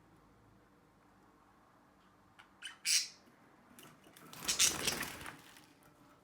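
Pet lovebird squawking: two short, sharp, high calls about two and a half seconds in, then a longer, louder, harsher burst about a second later.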